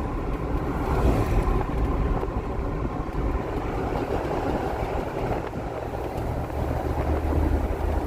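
Steady road and engine noise of a car driving along a highway, a continuous low rumble with tyre hiss.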